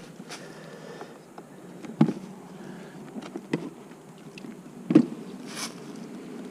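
Honey bees buzzing steadily around an opened hive, with a few sharp knocks about two, three and a half and five seconds in.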